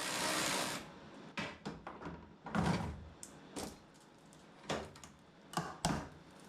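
Clicks and knocks of an engine wiring harness connector being worked loose by hand, after a short steady hiss that stops under a second in. The knocks are irregular, the loudest about two and a half seconds in.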